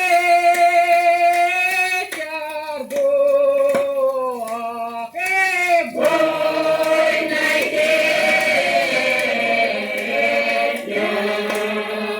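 Russian folk choir singing a slow folk song in long held notes, played from an old 78 rpm shellac record. The sound is dull and narrow with faint surface clicks. The singing thickens into a fuller blend of voices about halfway through.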